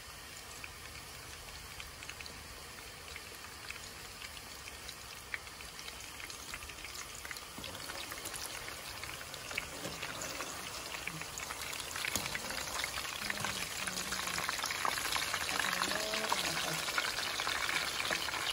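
Chapli kabab patties of minced beef sizzling and crackling in hot oil, a dense spatter of small pops that grows louder through the second half.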